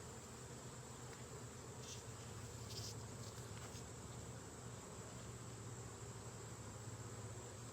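Honeybees buzzing steadily around an open hive, with a few faint light clicks about two and three seconds in.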